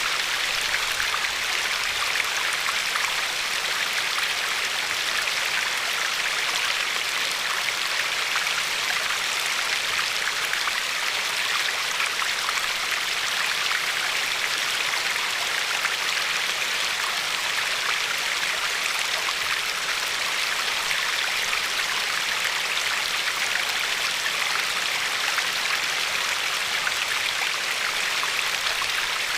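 A steady rush of river water running over a pebbly bed, with a fine, even babble and nothing standing out.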